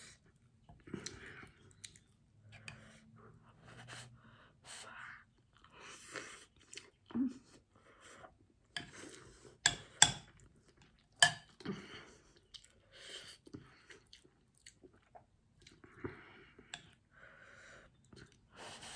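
Close-up chewing and mouth sounds of a person eating fried milkfish and rice, irregular and wet with small crunches. A few sharp clicks come about ten to eleven seconds in.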